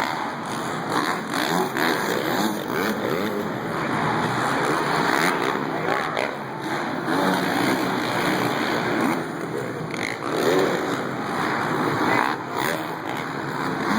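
Dirt bike engines running and revving, with a steady, dense engine noise that wavers in pitch.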